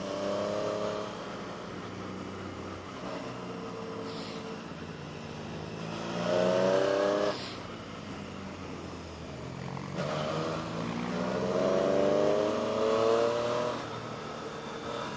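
Motorcycle engine running under way, rising in pitch twice as it accelerates, about six seconds in and again about ten seconds in, the revs dropping off sharply after the first.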